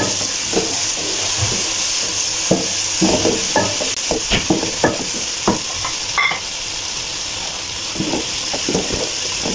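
Onion-tomato masala with whole spices sizzling as it fries in oil in a pot, stirred with a wooden spatula that knocks and scrapes against the pot at irregular moments.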